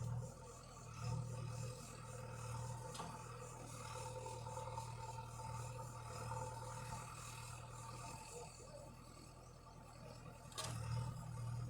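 Tractor engine running steadily, with a sharp click about ten and a half seconds in.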